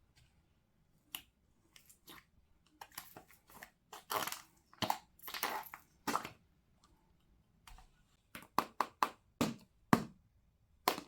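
Small handling noises from coloring materials: short scratchy rubs in the middle, then a quick run of sharp clicks and taps near the end.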